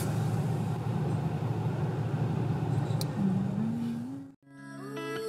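Steady low rumble of a car idling, heard from inside the cabin. About four seconds in it cuts off abruptly and background music with guitar begins.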